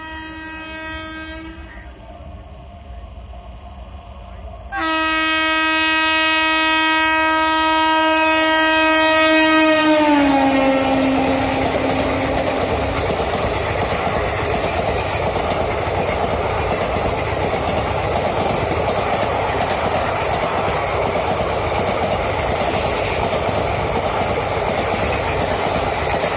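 Indian Railways WAP-4 electric locomotive's air horn: a short blast, then a long loud blast about five seconds in that drops in pitch as the locomotive passes at speed. The horn is followed by the steady rumble and clickety-clack of express passenger coaches rushing by.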